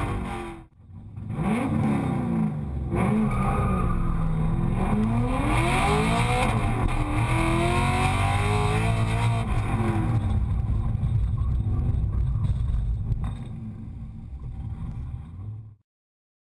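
Lingenfelter-built Camaro's LS7 V8 with side-exit Magnaflow exhaust, heard from inside the cabin, revving up and down repeatedly as the car accelerates and slows through the course. The sound drops out briefly about a second in, is quieter over the last few seconds, and cuts off suddenly near the end.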